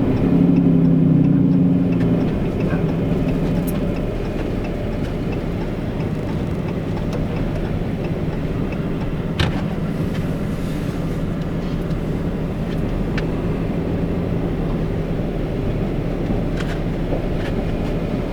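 Steady road and engine noise inside a Ram pickup's cab while driving, the Cummins diesel humming with a low tone for about the first two seconds. A few sharp clicks stand out later on.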